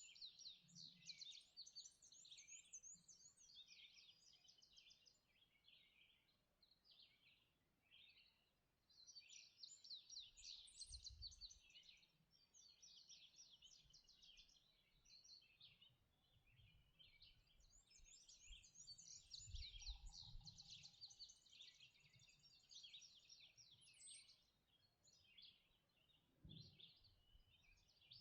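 Faint dawn chorus of several songbirds singing at once, with overlapping chirps, trills and fast repeated notes, and a few soft low rumbles now and then.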